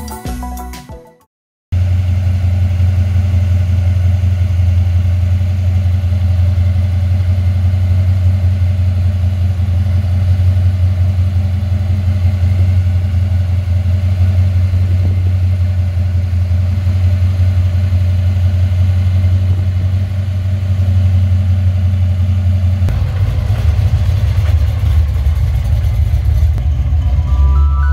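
Supercharged V8 of a third-generation Chevrolet Camaro idling loudly with a steady deep note, then running rougher and less even near the end as the car pulls away.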